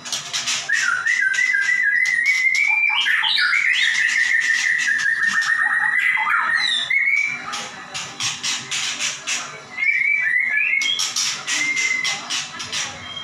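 White-rumped shama singing hard in full song: clear whistled notes held near one pitch, interleaved with fast runs of sharp clicking and rattling notes and quick upward glides.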